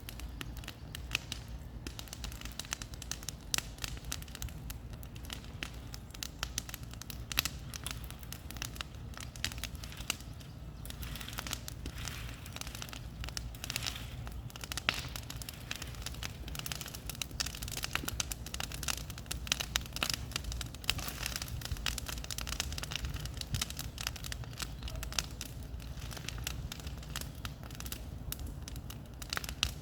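Bonfire crackling, with a dense run of irregular sharp pops over a steady low rumble.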